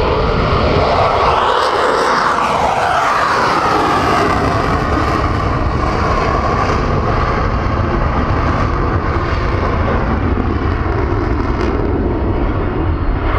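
Boeing F/A-18 Super Hornet's twin General Electric F414 jet engines roaring during its display. The tone sweeps down about two seconds in as the jet passes.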